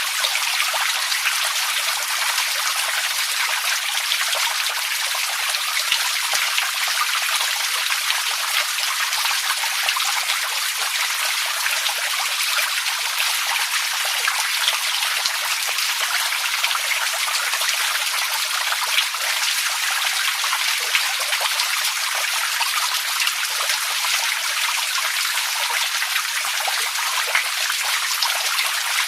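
Running water: a steady, even rush of many small splashes and trickles, unchanging throughout.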